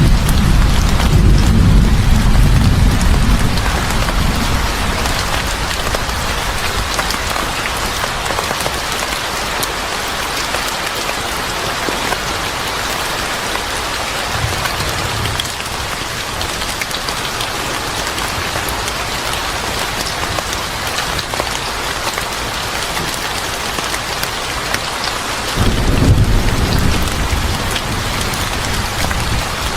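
Steady heavy rain falling, with low rolls of thunder in the first few seconds and again near the end.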